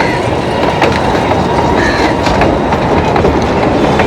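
Solar-powered miniature toy train running past on its narrow track, its wheels clicking irregularly over the rails above a steady high hum.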